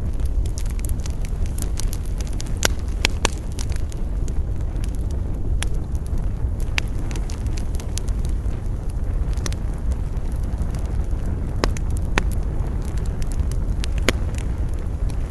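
Wood campfire crackling, with irregular sharp pops and snaps over a steady low rumble of wind.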